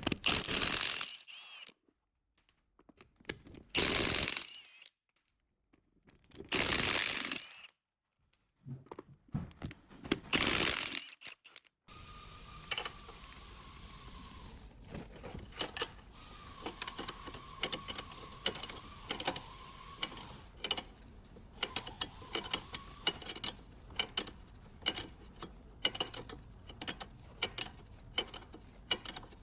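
Four short hissing bursts of about a second each, then from about twelve seconds in a hand ratchet clicking irregularly, many clicks a second, with a faint thin tone coming and going.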